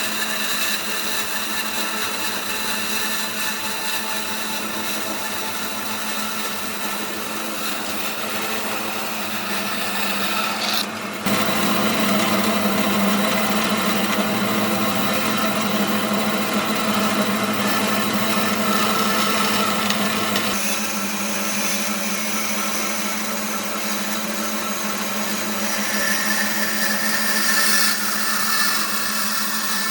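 An electric power tool running steadily while it works wood, with a whining tone. The sound changes abruptly about eleven and about twenty seconds in.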